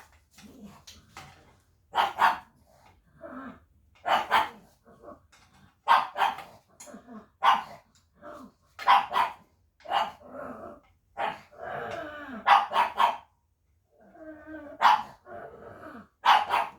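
A dog barking repeatedly, often two barks in quick succession, with longer, lower sounds between barks around the middle and near the end. It is barking as a guard dog does, though nobody is there.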